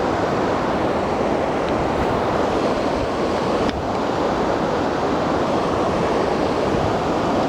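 Steady rush of a waterfall and river current pouring over rocks, with one brief click about halfway through.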